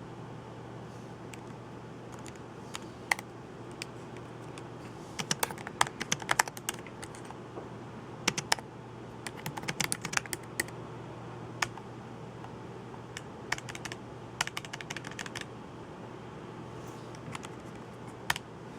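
Typing on a computer keyboard: sharp key clicks in quick runs with pauses and scattered single presses between, over a steady low hum.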